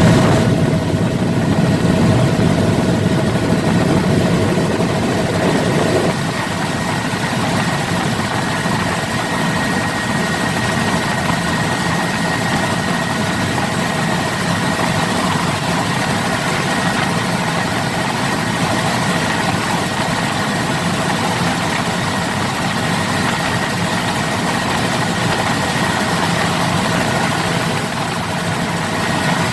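Helicopter running: a loud, steady engine and rotor drone with a faint high whine, and a lower tone that drops out about six seconds in.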